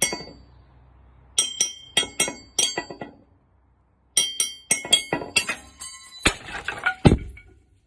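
Bright clinking strikes with a ringing tone, in quick runs of four or five, then two duller, heavier hits near the end.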